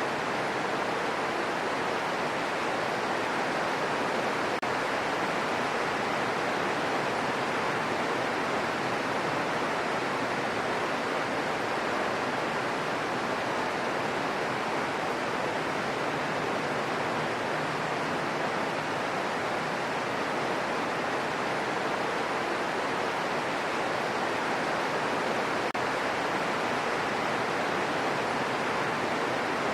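Steady rain falling: an even, unbroken hiss of rain with no separate drops or other events standing out.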